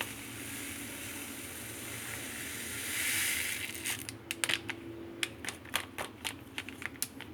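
Plastic snack packet being handled and crinkled: a steady rustling hiss that swells about three seconds in, then a quick irregular run of sharp crackles.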